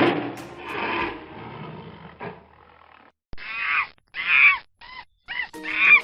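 An animal's roar trailing off, then after a short pause a run of five short calls, each rising and falling in pitch.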